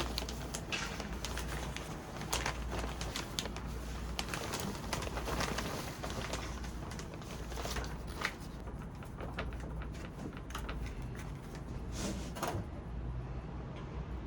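Scattered clicks, taps and rustles of hands working potting soil and a plant pot, over a steady low hum.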